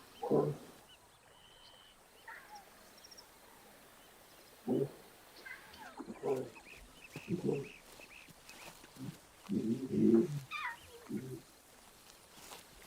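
Lions calling: a series of short, low calls, about eight of them at uneven intervals, the longest cluster about ten seconds in.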